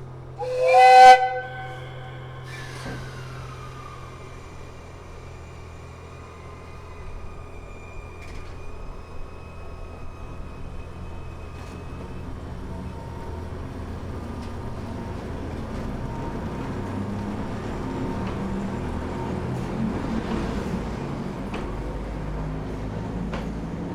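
A short, loud blast of a train whistle about half a second in. Then the low rumble of the train gets slowly louder as it runs.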